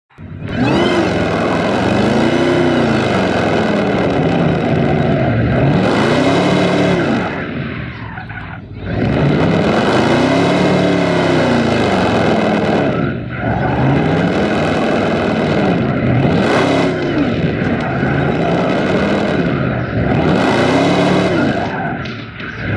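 Car engine revving up and falling back in repeated swells about every four seconds, with tyres squealing and skidding throughout, as in a car doing stunt driving.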